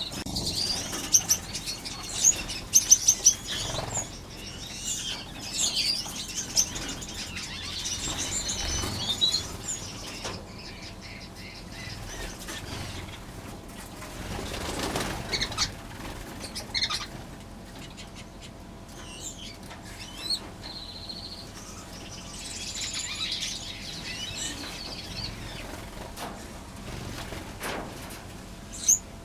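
Many small aviary finches chirping and calling, with wings fluttering in short whooshes as birds fly between perches every few seconds.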